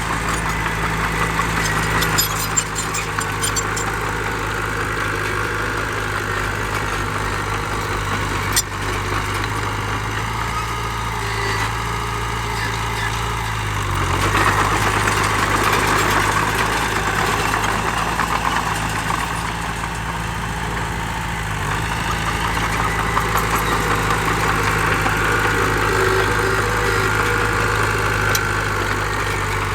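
Diesel engine of heavy earthmoving machinery running steadily, getting louder for several seconds about halfway through, with a sharp click about a third of the way in.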